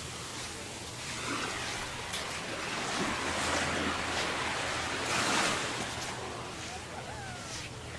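Gulf of Mexico surf washing onto a sandy beach, the wash swelling and fading as each small wave comes in.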